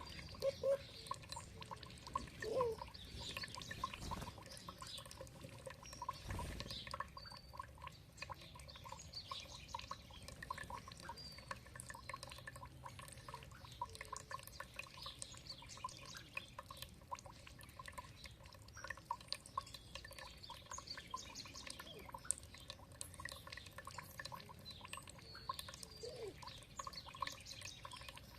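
Water trickling and dripping in many quick irregular drops, with small birds chirping now and then.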